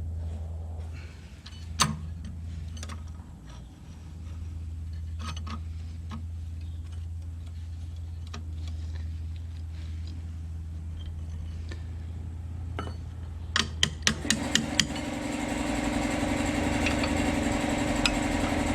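Scattered metal clicks and knocks of hand work on a machine over a steady low hum. About two thirds of the way in comes a quick run of clicks, then a small motor runs steadily until the end.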